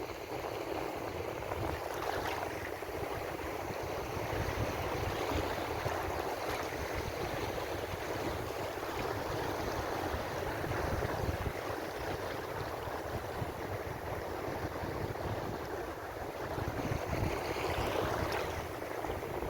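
Ocean waves washing in a steady rush of surf, with one wave swelling louder near the end.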